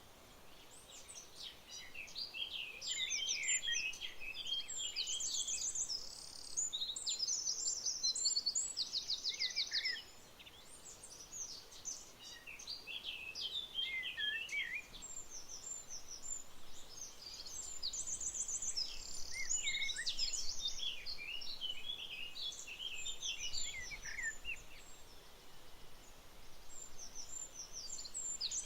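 Many songbirds singing and calling at once, a dense chorus of varied chirps and whistles with quick, evenly spaced trills, over a faint steady background. The chorus thins out for a while about a third of the way in, then builds again.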